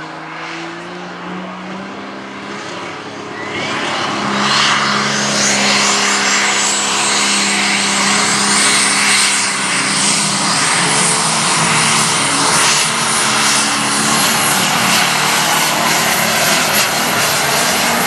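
Heavy super stock pulling tractor's turbocharged diesel engine running low, then opening up about three and a half seconds in. It is loud from then on, with a high turbo whine that climbs and then holds as the tractor pulls.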